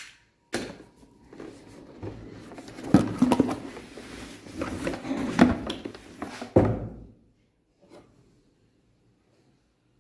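Cardboard packaging being slit open and handled, scraping and rustling with several sharp knocks. It falls to near silence about seven seconds in.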